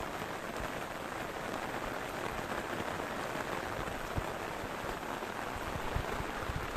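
Steady rain falling, an even hiss with scattered individual drops striking a surface.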